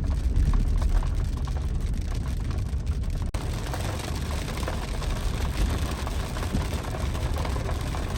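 Steady rain hiss over a continuous low rumble, with an abrupt cut about three seconds in.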